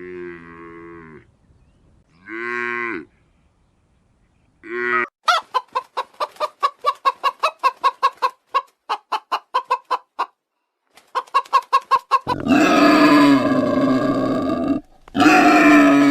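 Farm animal calls: three short pitched calls, then a chicken clucking in a rapid run of several clucks a second for about five seconds, a shorter run of clucks, and two long, loud calls near the end.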